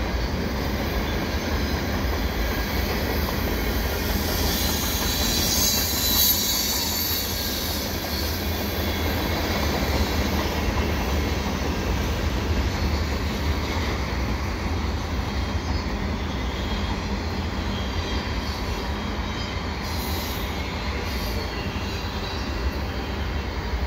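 Freight cars of a CN mixed freight rolling past on the rails: a steady rumble of steel wheels on track, with a high wheel squeal about four to eight seconds in.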